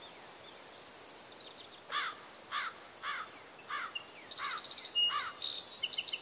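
Outdoor ambience of birdsong: from about two seconds in, a bird repeats a short peaked call note six times, about one every half second. In the last two seconds it is joined by higher, rapid trills, over a steady faint high hiss.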